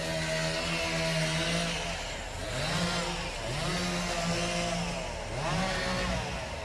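Chainsaw running at high speed through a cut; its pitch sags and climbs back three times from about two seconds in as the saw loads up and frees.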